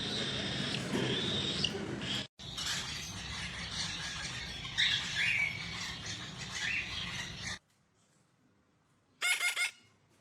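Pet parrot chirping and whistling over a steady background hiss, broken by abrupt edits; about nine seconds in, a short loud burst of three squawks.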